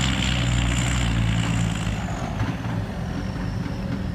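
Diesel dump truck engine running, with a high whistle above the engine note; the engine note and whistle ease and drop in pitch about two seconds in.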